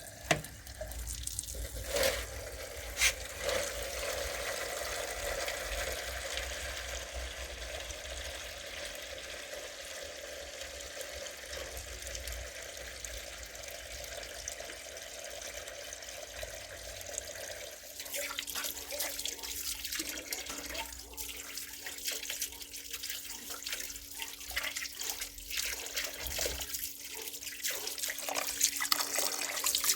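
Water running or being poured, a steady rush with a few clicks near the start, turning to a rougher crackling spatter about two-thirds of the way through.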